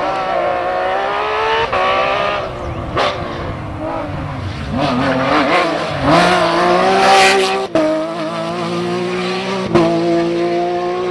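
Porsche 911 flat-six rally engine at full throttle, revving up and down, with several sharp gear changes where the pitch drops suddenly.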